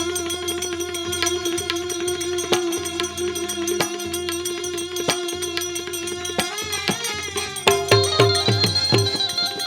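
Devotional bhajan music between sung lines: a long held melodic note carries on over a steady rhythm of small metallic percussion strikes, and low drum strokes come in about eight seconds in.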